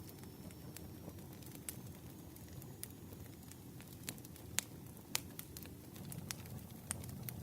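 Campfire burning: a low steady rush of flames with sharp, irregular pops and snaps, about ten of them.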